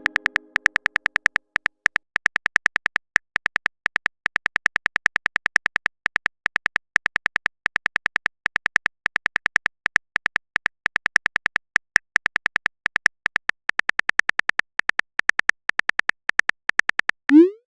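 Phone keyboard typing sound effect: quick, irregular runs of short clicky beeps, about five or six a second, as a message is typed out.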